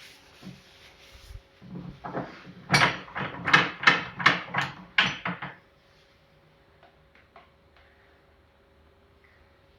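Metal shock parts and tools knocking and clinking together, a quick run of about eight sharp knocks in the middle, as the sealed rear shock is worked apart on the bench; then only a faint steady hum.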